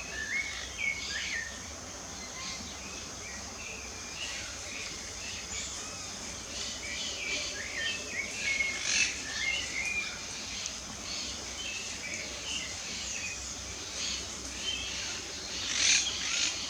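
Several birds chirping and singing in short overlapping phrases, over a steady high-pitched insect drone.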